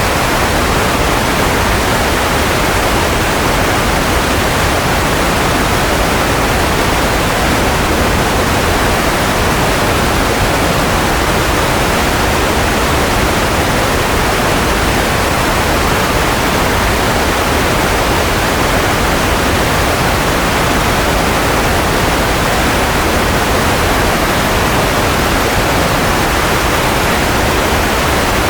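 Steady, unchanging white noise: an even, constant hiss with no rises, breaks or tones.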